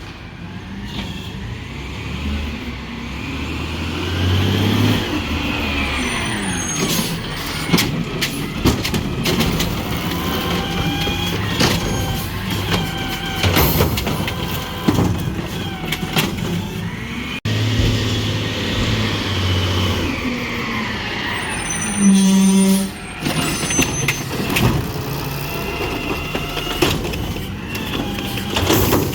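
Garbage truck at work: the engine runs and revs up and down, with many sharp metallic bangs and clanks. A loud, short, pitched blast comes about two-thirds of the way through.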